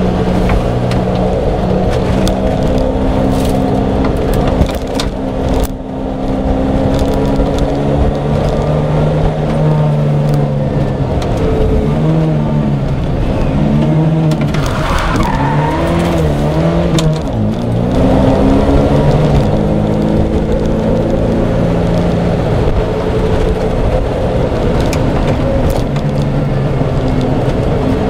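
Fiat 131 rally car's engine heard from inside the cabin, pulling through the gears with the revs rising and falling. Around the middle it blips up and down quickly as the driver brakes and downshifts for a tight bend, with a brief tyre squeal.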